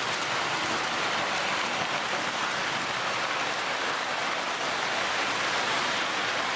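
Lionel O gauge D&H U36C diesel locomotive running on three-rail track: a steady rolling noise of wheels and motor, even and unbroken.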